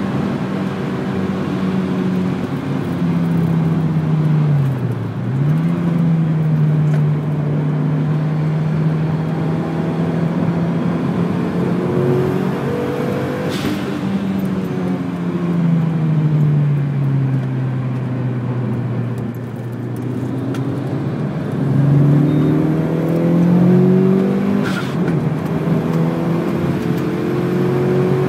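In-car sound of a Mitsubishi Lancer Evolution's turbocharged four-cylinder engine being driven hard on a race track. The revs dip sharply about five seconds in, hold steady, sag slowly as the driver lifts, then climb again about three quarters of the way through. Road and wind noise sit under the engine note, with a couple of brief clicks.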